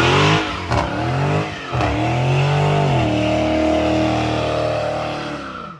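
Car engine revved hard several times in quick rising and falling sweeps, then held at high revs for a few seconds before the revs drop and the sound cuts off abruptly.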